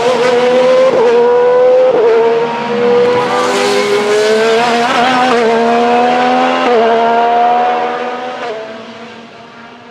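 IndyCar's twin-turbo V6 accelerating hard, its pitch climbing and dropping at each upshift, several shifts about a second or two apart. The sound fades away over the last two seconds as the car pulls off down the track.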